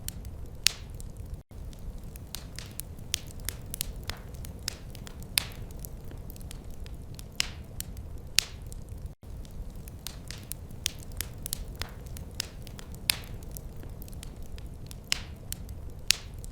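A wood fire crackling, with frequent irregular sharp pops and snaps over a steady low rumble of burning. The sound drops out for an instant twice, about a second and a half in and about nine seconds in.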